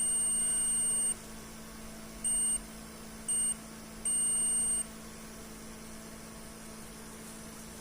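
Electronic beeper sounding four times at one high pitch: a long beep, two short ones, then another long one. A steady low electrical hum runs underneath.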